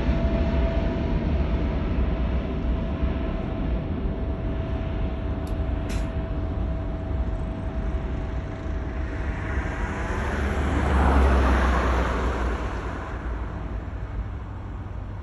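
British Airways Boeing 777-200ER jet's engine rumble receding after takeoff, with a steady whine fading out. About ten seconds in, a louder rushing swell rises and falls over a few seconds, then the noise slowly dies away.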